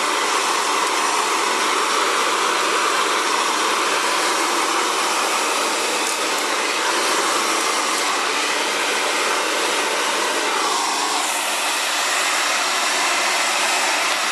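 Xtava Allure 2200-watt ionic ceramic hair dryer running continuously, a steady loud blowing hiss, while blow-drying natural curly hair.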